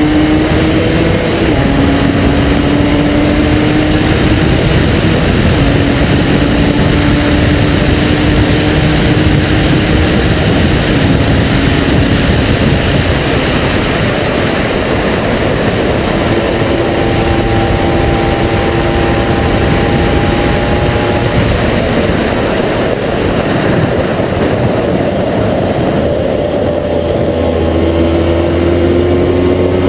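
Honda NSR 125's two-stroke single-cylinder engine running through a Giannelli exhaust. Its pitch climbs slowly and drops back several times, then rises again near the end.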